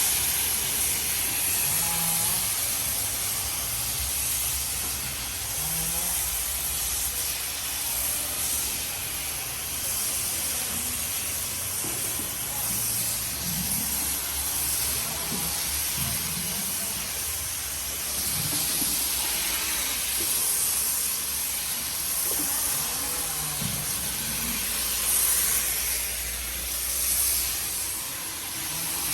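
Pressure washer spraying during a snow foam car wash: a steady hiss of spray with a low hum of the pump underneath.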